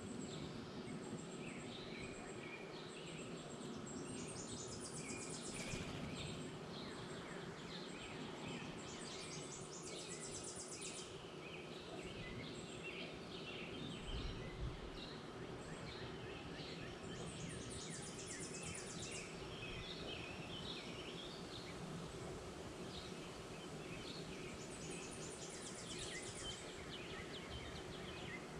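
Wild songbirds calling and singing, with many short chirps and a high, rapid trilled song repeated four times, about every seven or eight seconds, over a faint steady background hum.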